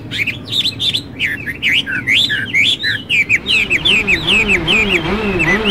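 Songbirds chirping in a quick run of short notes that swoop up and down, thinning out over the second half. From about three and a half seconds in, a low wavering tone fades in underneath, rising and falling in pitch about twice a second.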